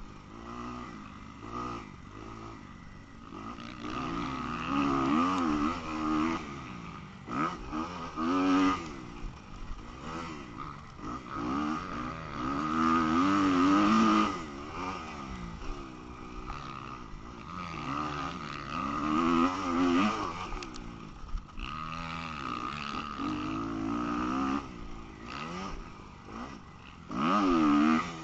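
Motocross dirt bike engine revving hard and falling back again and again as the throttle is worked and gears are changed, with the loudest surges a few seconds apart.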